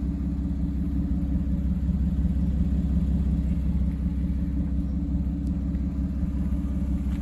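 1997 Toyota Supra Twin Turbo's 2JZ-GTE twin-turbo inline-six idling steadily.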